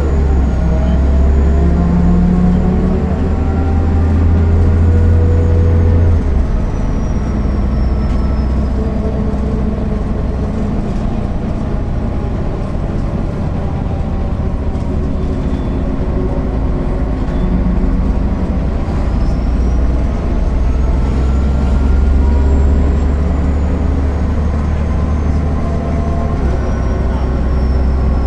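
MAN NL 262 city bus driving, its diesel engine and ZF 5 HP 600 automatic gearbox running under way. The deep engine drone drops off suddenly about six seconds in, then builds again in the second half with a whine that rises and falls.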